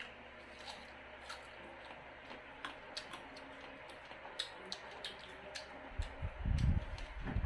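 Boiled peanut shells being cracked and peeled by hand, with scattered small clicks and crackles. About six seconds in, a louder low thump and rumble, like a bump or handling noise.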